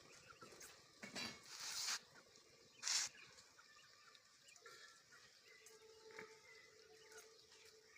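Quail making faint short calls, with two brief bursts of rustling, hissing noise in the first few seconds.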